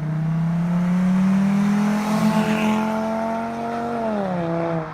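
Volkswagen car accelerating down the street under a full-throttle pull, its engine note climbing steadily for about four seconds, then dropping in pitch near the end.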